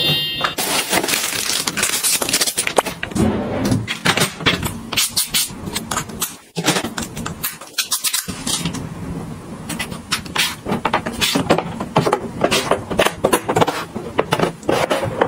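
Plastic packaging crinkling and clicking in quick, irregular handling noises as packets of freeze-dried food are picked up and stacked away.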